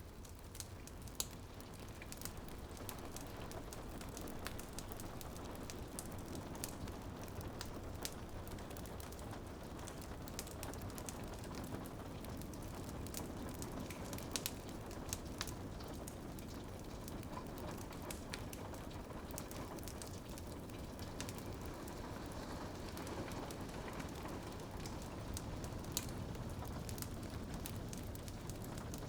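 Crackling wood fire with scattered sharp pops and snaps, over a steady patter of rain on a window.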